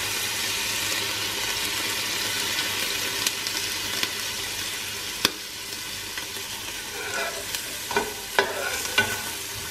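Sliced onion, carrot and whole spices sizzling steadily in melted butter in a stainless steel pot as lemon juice is squeezed in. A sharp click about five seconds in, then a few clicks and short scrapes of the steel spoon against the pot near the end.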